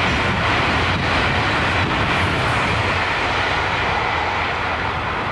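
High-speed electric passenger train running past at speed: a steady rushing of wheels on rail and air that holds an even level throughout.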